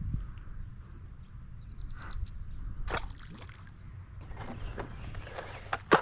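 Wind rumbling on the microphone, with water sloshing and a few sharp clicks and knocks about two seconds in, three seconds in and near the end.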